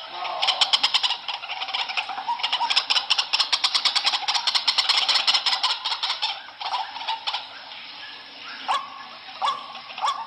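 White-breasted waterhen calling: a fast, rattling chatter of rapid notes for several seconds, then slower separate notes, each rising sharply in pitch, spaced about a second apart near the end.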